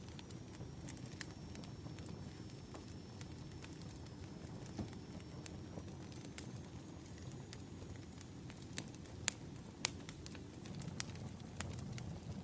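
Firewood burning: scattered crackles and sharp pops over a steady low rumble, with a few louder pops after about nine seconds.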